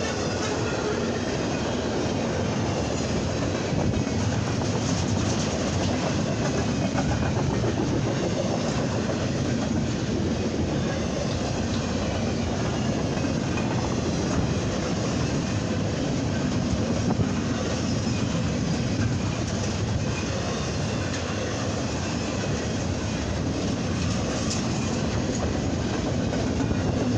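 Cars of an intermodal freight train rolling steadily past, a continuous rumble of steel wheels on the rails.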